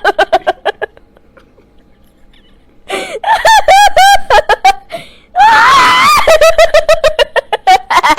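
A voice laughing maniacally in rapid 'ha-ha' bursts. It stops for about two seconds, starts again, and breaks into a long, wavering, high-pitched shriek about halfway through before going back to fast cackling.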